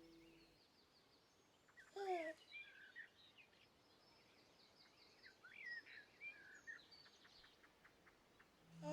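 Faint birdsong: small birds chirping and twittering, with a louder call that glides downward about two seconds in.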